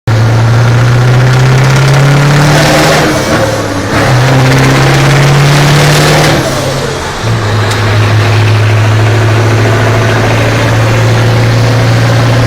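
Heavy truck running loudly, with a strong low drone that dips briefly about 3.5 and 7 seconds in, then holds steady.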